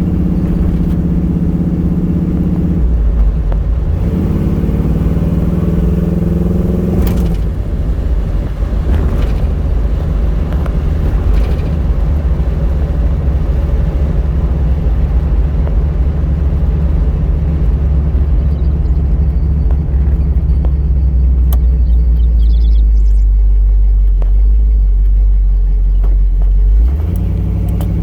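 1978 Pontiac Trans Am's V8 idling, then pulling away gently and cruising with a low exhaust rumble and road noise, heard from inside the car. It settles back toward idle near the end.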